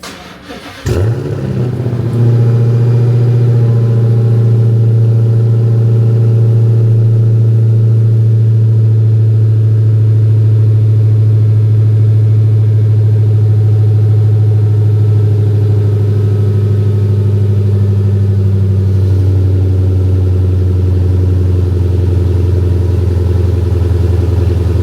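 Chrysler 300's engine cranking on a jump start, catching about a second in, then running at a steady, even idle with no audible misfire.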